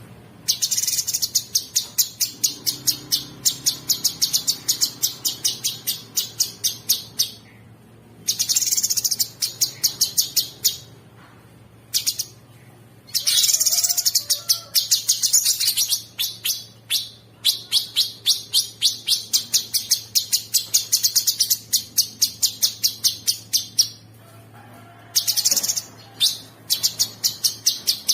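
Cucak sungkok singing in long, fast trills of rapidly repeated very high notes, several phrases of a few seconds each broken by short pauses; a faint steady hum runs underneath.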